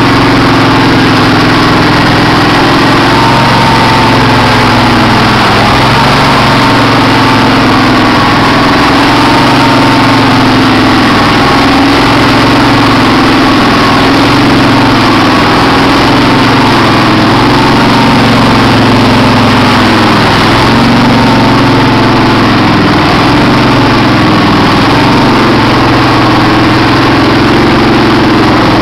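Kohler CV18S 18.5 hp V-twin engine of a Craftsman hydrostatic garden tractor running steadily, warming up just after a cold start. It is very loud and even throughout.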